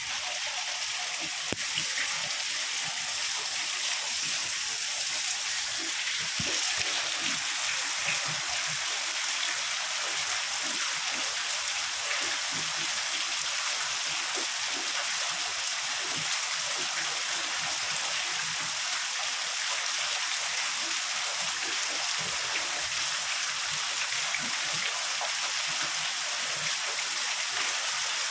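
Heavy rain falling steadily: a dense, even hiss with many small drops pattering through it.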